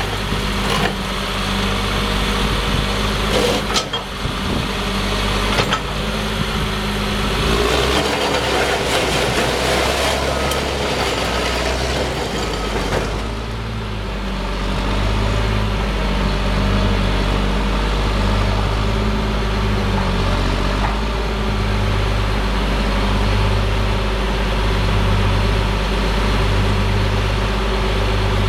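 Caterpillar D6R bulldozer's diesel engine running steadily, with a few sharp knocks and clanks in the first several seconds and a slow, regular throb in the low drone from about halfway on.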